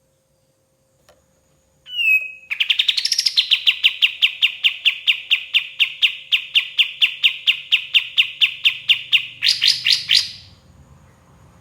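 Kapas tembak bulbul singing: a short whistled note, then a long, rapid run of identical sweeping notes at about five a second, ending in a few louder notes before it stops near the end.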